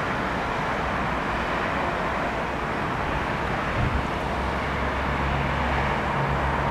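Steady rumble of a Stadler GTW diesel multiple unit pulling away from the station, mixed with road traffic noise. A low engine hum comes in about five seconds in.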